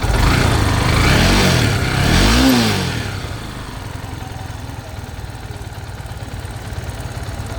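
Bajaj Pulsar AS150's single-cylinder engine blipped twice with the throttle, each rev rising and falling, then settling back to a steady idle.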